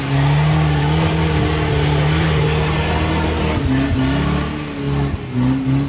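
Rock crawler's engine revving hard and held under load, then easing off about five seconds in and coming back in short throttle blips near the end.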